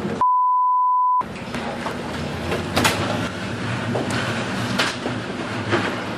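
A censor bleep: a single steady beep about a second long, the loudest thing here, replacing the footage's own sound. It is followed by a steady rumbling din with a low hum and scattered sharp knocks.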